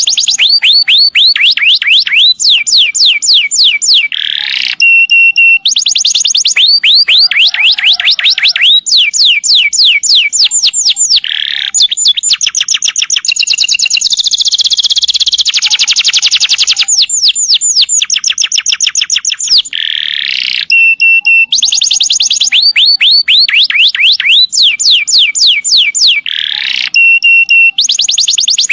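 Domestic canary singing long rolling song: loud, rapid trills of repeated down-sweeping notes in phrase after phrase, with one longer, denser roll of several seconds about halfway through.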